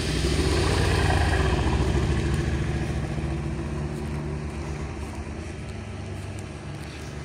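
A car engine running at low, steady revs, loudest about a second in and then fading steadily.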